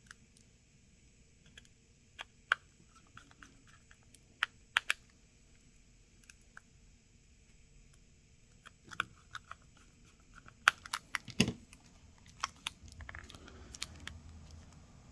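Small repair tools clicking and tapping on a smartphone's internal bracket while its two tiny screws are set in: scattered light clicks, sparse at first and coming more often in the second half, with faint rustling near the end.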